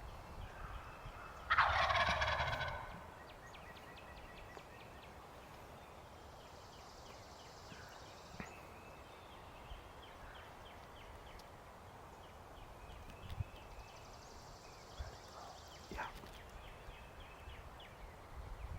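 Wild turkey gobbler gobbling once, a loud rattling call about a second and a half in.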